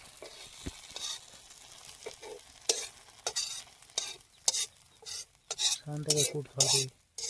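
Gravy frying in a metal pan over a campfire, stirred with a metal spoon that scrapes the pan in irregular strokes from just under three seconds in.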